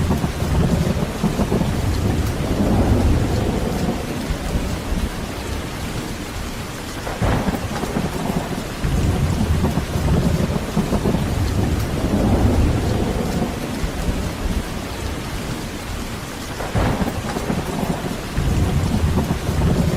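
Heavy, steady rain with thunder rumbling low and rolling in repeated swells. Two sharper thunder cracks break through, one about seven seconds in and another near seventeen seconds.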